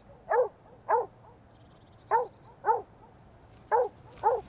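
A dog barking six times, in three pairs of short barks. A listener takes it for a happy, playful bark, full of excitement, like a dog waiting for a ball to be thrown.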